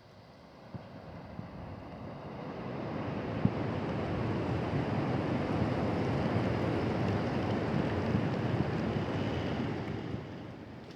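Strong wind buffeting the microphone: a gust that builds over the first few seconds, holds as a steady rushing noise, and eases off near the end.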